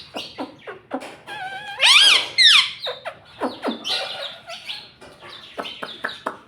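Indian ringneck parrot chattering: a quick run of clicks and short pitched calls, loudest a pair of arched, rising-and-falling calls about two seconds in.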